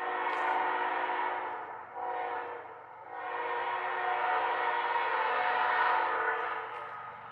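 Diesel locomotive's air horn sounding a chord in blasts: a long one, a short one, then a long one that fades away. This is the end of the long-long-short-long grade-crossing signal.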